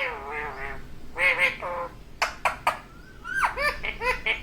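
Ringneck parrot calling: two drawn-out nasal calls, three sharp short chirps around the middle, then a rising squeak and a quick run of short repeated notes near the end, about five a second.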